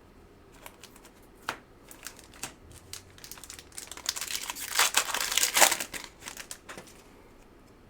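Plastic trading-card pack wrapper being torn open and crinkled, with a few light clicks and taps at first and the crinkling densest about four to six seconds in.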